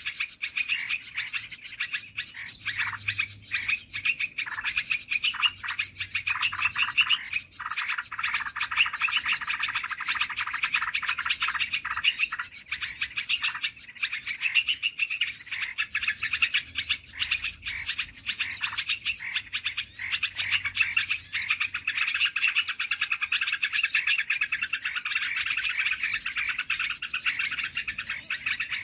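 Dense, unbroken chatter of many rapid, high bird chirps: a bird-trapping lure call for olive-winged bulbuls (merbah belukar).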